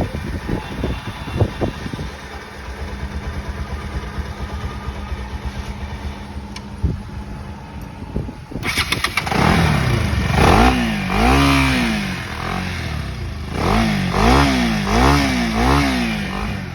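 Bajaj Pulsar NS 200 single-cylinder engine idling steadily after a new timing chain and inlet rocker arm were fitted. About eight seconds in it is blipped repeatedly, the pitch rising and falling with each blip, in two runs of quick revs.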